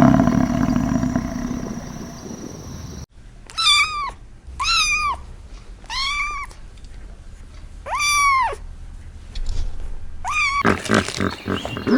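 A loud animal sound fades out over the first three seconds and stops at an abrupt cut. Then a cat meows five times, about once every one and a half seconds, each meow high-pitched and rising then falling.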